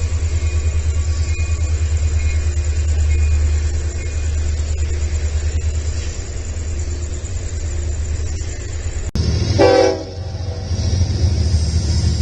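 Union Pacific EMD SD70 diesel locomotive passing, a steady low engine rumble with a rapid pulsing. About nine seconds in the sound changes abruptly, and a locomotive horn gives a short blast.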